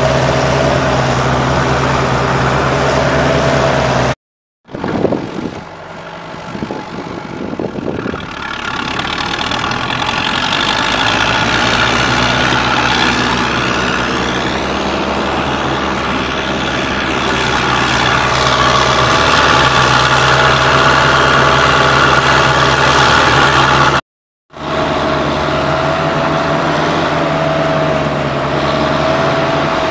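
Engine of an all-terrain swamp vehicle running steadily, broken by two brief silent cuts. After the first cut it starts quieter and builds back up over several seconds.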